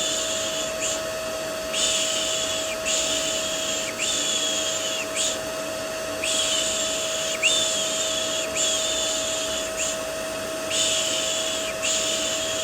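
A vacuum cleaner running steadily with a constant hum. Over it, a person shushes ('shhh') in sets of three. Each shush lasts about a second, with a short pause between sets.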